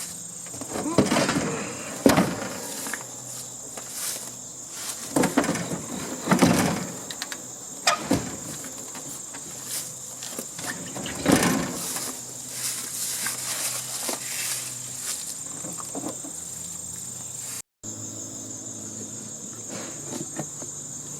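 Wires being pulled and fed through the sheet-metal housing of a heating and air-conditioning unit: irregular rustles, scrapes and knocks, loudest in the first half. Underneath, a steady high insect drone.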